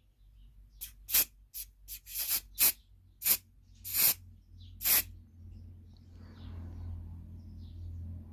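Aerosol spray-paint can of red paint sprayed in about nine short hissing bursts over the first five seconds, then stops; a faint low hum continues afterwards.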